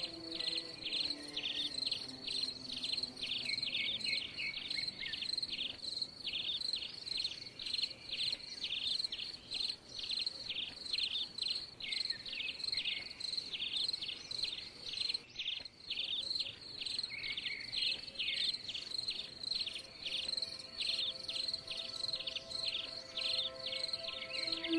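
Insects chirping in an even pulse, about three chirps a second, over a continuous high buzz.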